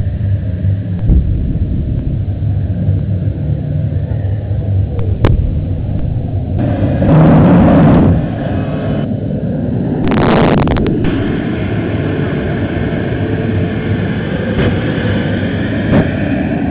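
Jet-powered quad bike's engine running with a steady loud rumble, surging louder twice, at about seven and ten seconds in.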